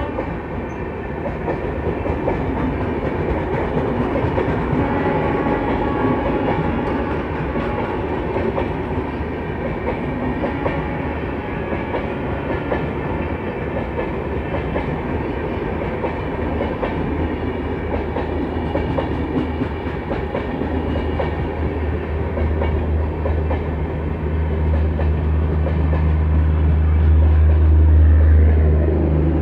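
Passenger coaches of a Duronto Express rolling past on a station platform line, wheels clattering over rail joints. A deep steady hum grows louder over the last dozen seconds.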